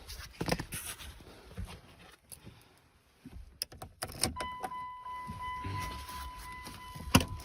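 Keys jangling with scattered clicks and knocks, then from about halfway a steady high-pitched electronic warning tone from the 1999 Dodge Ram's dash as the key is put in. A sharp click comes near the end.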